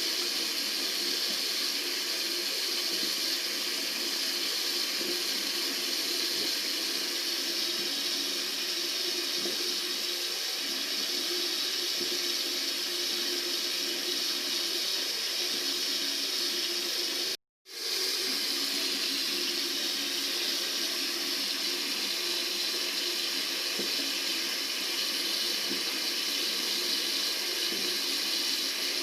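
Tap water running steadily from a faucet, an even rushing hiss. It cuts out completely for a split second about two-thirds of the way through, then resumes unchanged.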